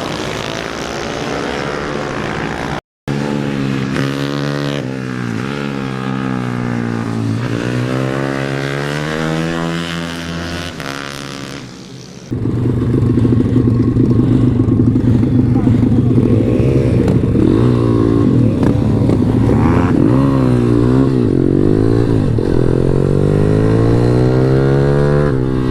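Pit bike's single-cylinder engine revving hard, its pitch rising and falling repeatedly through gear changes and corners. The sound cuts out for a split second about three seconds in, and is louder from about twelve seconds in.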